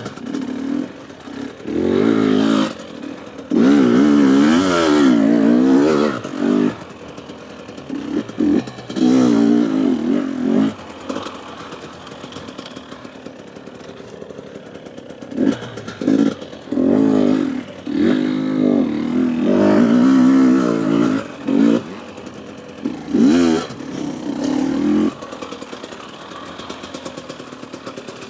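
Husqvarna TE250 enduro dirt bike engine being ridden, revving hard in bursts of a few seconds with its pitch rising and falling on the throttle, and dropping back to a low, quieter running between bursts.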